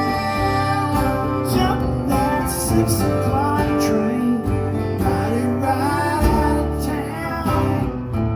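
Live music with acoustic guitar strumming and other instruments playing the closing bars of a song, with some sung or held melodic lines over the guitar.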